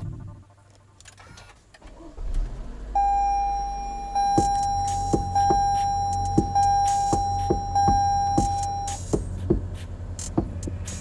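Toyota RAV4 started and running, with a steady electronic warning tone held for about six seconds and a regular clicking about twice a second.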